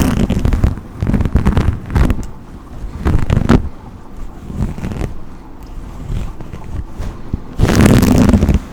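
Brush strokes sweeping close to the microphone in irregular swishes, each about half a second to a second long, with a longer, louder stroke near the end.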